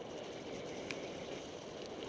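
Steady rushing noise of a mountain bike descending a trail in the rain, with a single sharp click about a second in.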